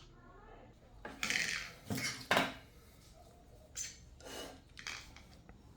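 Small metal tools and parts being handled on a work surface: a handful of short scrapes and clicks, the loudest about a second to two and a half seconds in.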